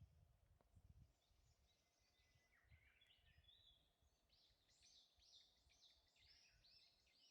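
Faint high-pitched songbird calls: scattered chirps, then from about halfway a quick run of short high notes, over a low rumble near the start.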